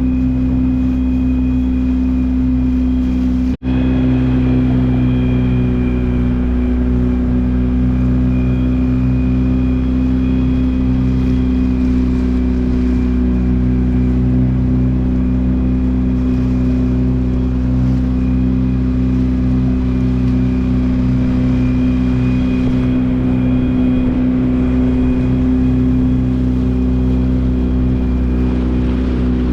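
Boat engine running at a steady, unchanging speed, cut off briefly for an instant about three and a half seconds in, then running on.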